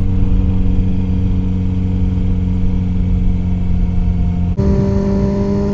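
Kawasaki Z900RS Cafe's inline-four engine running steadily under way. About four and a half seconds in the sound briefly dips, then the engine note jumps higher and keeps rising slowly.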